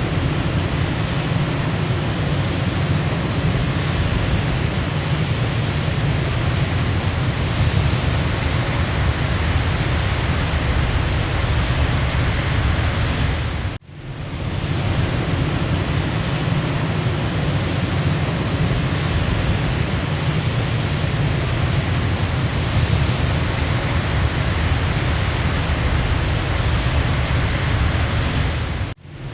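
Waterfall: steady, full rushing of falling water, heaviest in the low end. The sound dips out briefly about halfway through and again near the end, where the recording loops.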